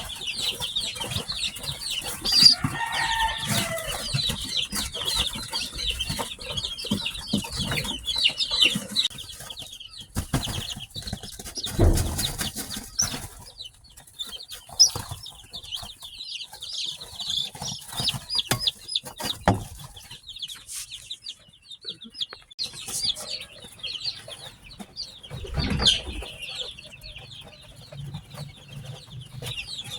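Newly hatched chicks peeping: many short, high, overlapping cheeps, busiest in the first third and thinning out later, with a couple of brief thumps or rustles, one about twelve seconds in and one near the end.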